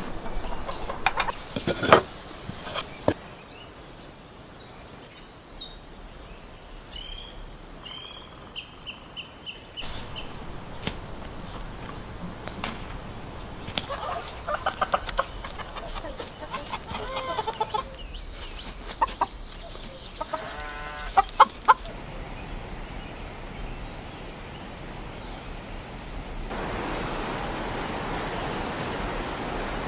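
Domestic chickens clucking, with short high chirps here and there. About 26 seconds in it cuts to the steady rush of running water.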